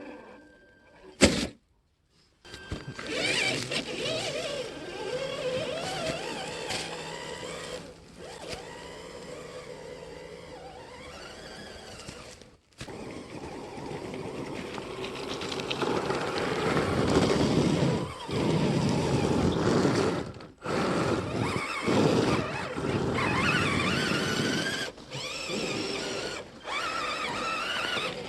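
Electric motors and gearboxes of RC scale trucks driving, the whine rising and falling in pitch with the throttle over a rougher noise of the running gear, broken by several abrupt cuts.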